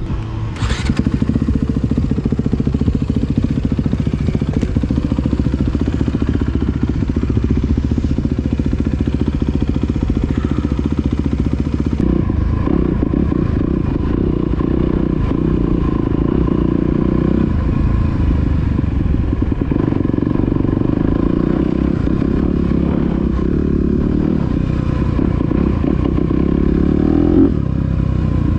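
A 2021 Honda CRF250R dirt bike's single-cylinder four-stroke engine running loudly through a Yoshimura titanium exhaust. The sound changes character about twelve seconds in.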